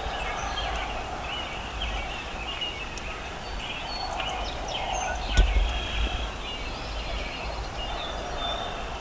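Wild turkeys calling, with gobbling among the calls, over a steady low rumble. One sharp knock comes about five and a half seconds in.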